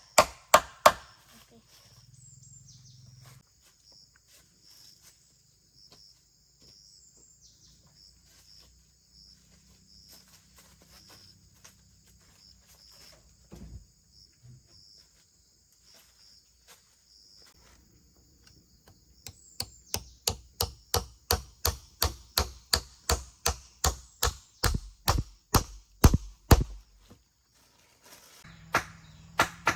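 Rapid blows of a hand tool on wood, about two to three strikes a second. They come briefly at the start and again in a run of about eight seconds in the second half, where they are loudest. Steady insect chirping goes on underneath.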